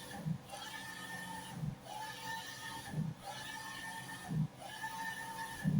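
Printer printing a sticker sheet, its print head carriage sweeping back and forth: a steady motor whine on each pass and a short low knock at each turn, about every one and a half seconds.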